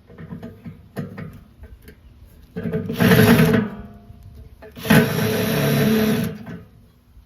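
Electric drill running in two bursts of about a second each, driving a screw into a fire pit, after a few light clicks and knocks of handling.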